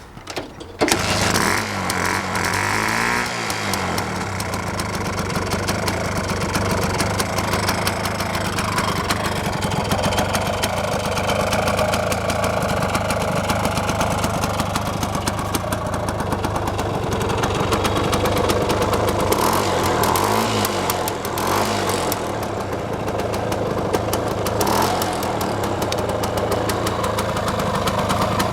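A Puch-built Sears Allstate Twingle 175's split-single two-stroke engine (two cylinders sharing one combustion chamber) starting about a second in, then running at idle. The revs briefly rise and fall a few times, near the start and again later on.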